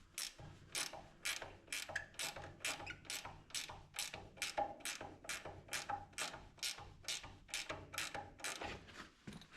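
A ratchet clicking steadily, about three clicks a second, as it is worked to pull the two halves of the tractor apart; it stops near the end.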